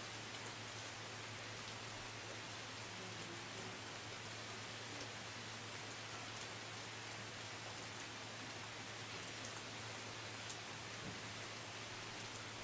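Steady rain falling: an even hiss with scattered sharp ticks of single drops, over a faint low steady hum.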